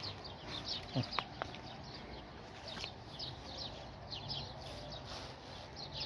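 Small birds chirping: short, high, downward-sliding chirps repeating in quick clusters. A brief knock and a couple of clicks about a second in.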